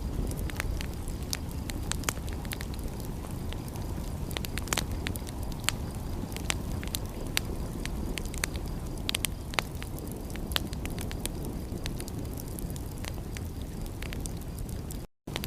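Wood fire crackling, with frequent irregular sharp pops and snaps over a steady low rumble. The sound cuts out completely for a fraction of a second near the end.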